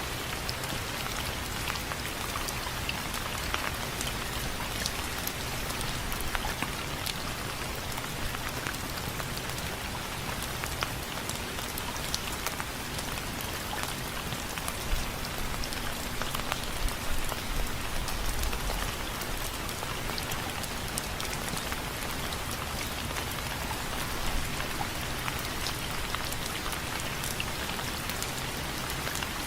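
Steady rain with many individual drops pattering and ticking on window frames.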